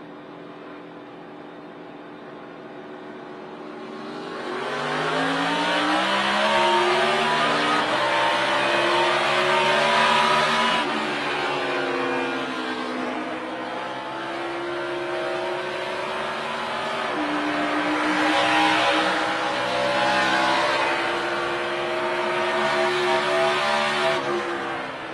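NASCAR Cup Chevrolet SS's V8 engine heard from onboard, running low and even at pace speed, then going to full throttle about four seconds in for a race restart. The engine note climbs, drops as the driver lifts for a corner about eleven seconds in, then climbs and falls again through the following turns.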